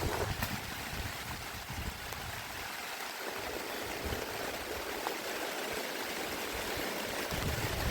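Steady rain hiss, with wind buffeting the microphone that dies down two or three seconds in.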